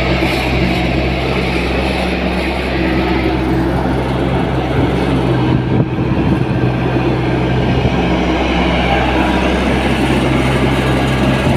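Diesel engine of a Tata Hitachi EX70 Prime excavator running steadily, with a brief dip about six seconds in.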